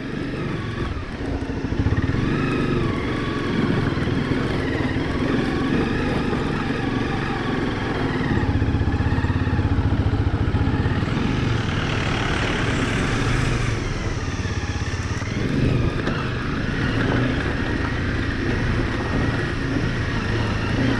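Motorcycle engine running under way while crossing a rough, difficult stretch of mountain road. Its pitch rises and falls as the revs change.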